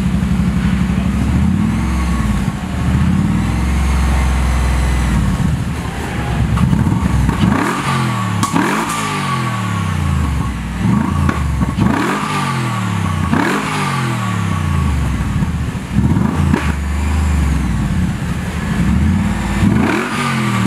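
TVR Griffith's Cosworth-tuned Ford Coyote V8 idling steadily through its side-exit exhaust. From about seven seconds in it is blipped again and again, each rev rising quickly and falling back to idle.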